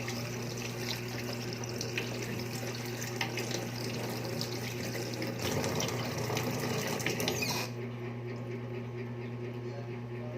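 Water running from a tap into a sink during hand washing, over a steady low hum; the running water cuts off about three-quarters of the way through.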